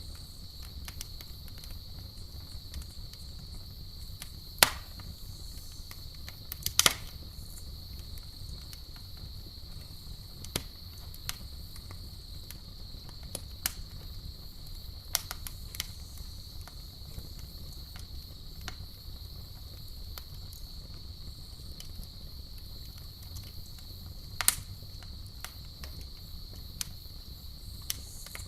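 Campfire crackling, with scattered small snaps and a few sharp pops, the loudest about five and seven seconds in and again near the end, over a low steady rumble. A steady high cricket trill runs underneath.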